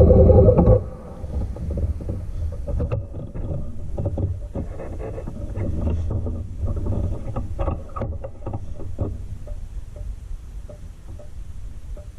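Motorcycle engine running, stopping abruptly about a second in; then a low rumble with scattered irregular knocks and clicks.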